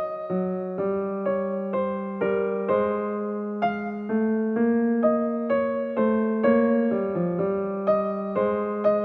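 Background piano music: a gentle melody of single notes struck about twice a second over sustained lower notes.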